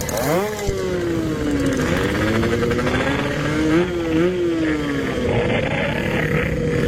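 Yamaha RX King single-cylinder two-stroke motorcycle engine, through a Packing Power aftermarket exhaust, pulling away while riding. It revs up sharply about half a second in, then eases off and runs on at a fairly steady pitch, with two short rev rises around four seconds in.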